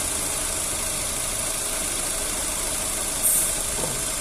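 Chevrolet Astra engine idling steadily at operating temperature, running smoothly with no obvious knock. About three seconds in there is a brief high hiss.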